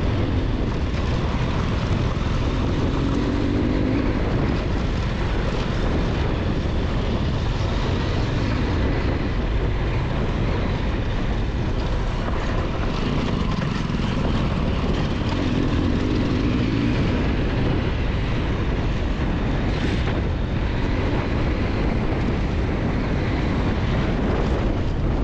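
Adventure motorcycle riding on a dirt road: the Triumph Tiger 1200 XCX's three-cylinder engine running under steady wind and road noise, its note rising briefly twice, a few seconds in and again midway.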